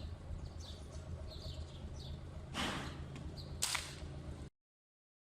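Small birds chirping repeatedly over a low steady rumble. A short rustle comes about two and a half seconds in, and a sharp crack, the loudest sound, about a second later. The sound cuts out completely near the end.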